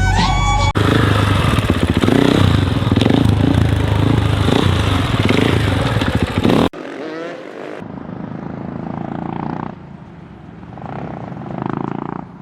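Motorcycle engines running and revving, with abrupt cuts between clips about a second in and again just past halfway; the later part is quieter, with rising and falling revs.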